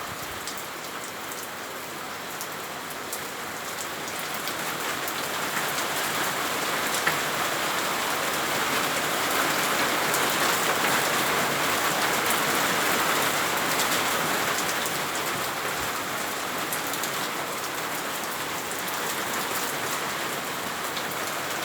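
Heavy rain mixed with hail: a dense, steady hiss with many scattered sharp ticks of hailstones striking. It grows louder a few seconds in, peaks around the middle, then eases slightly.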